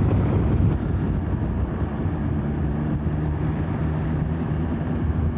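BMW S1000XR inline-four motorcycle engine running steadily on the road, with wind rushing over the helmet microphone.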